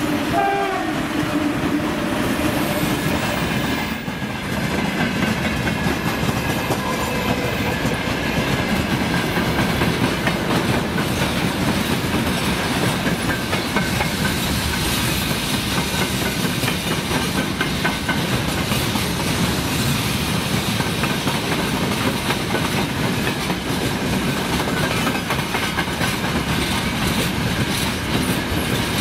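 A long freight train of open gondola wagons rolling past close by on electrified track, its wheels clattering over rail joints in a steady clickety-clack. In the first second a whine from the passing electric locomotives falls in pitch.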